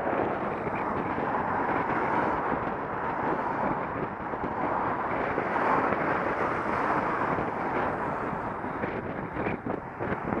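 Wind rushing over the microphone of a Contour action camera on a moving bicycle, a steady noise that rises and falls, with a few short knocks near the end.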